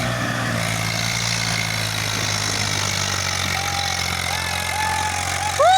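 Tractor diesel engine running steadily with a low hum. Past halfway a high, steady tone comes in faintly in short pieces, then sounds loud and long right at the end.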